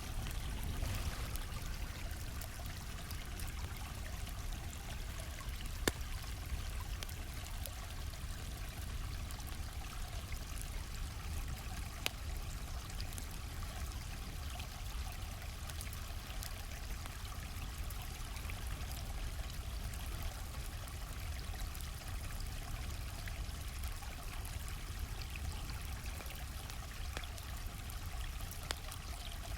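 A stream flowing steadily, with a deep rumble underneath. Now and then a campfire crackles with a single sharp pop, three times, the loudest about six seconds in.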